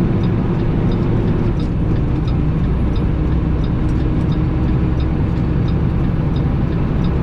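Semi truck's diesel engine and road noise heard from inside the cab while cruising: a steady low drone and rumble. A faint, even ticking comes about twice a second.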